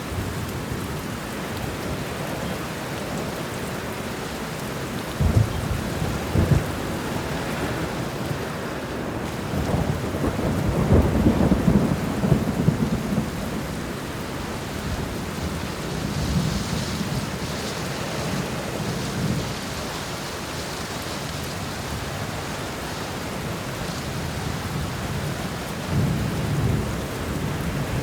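Steady heavy rain with rolls of thunder: low rumbles swell up about five seconds in, more strongly around ten to thirteen seconds, and again near the end.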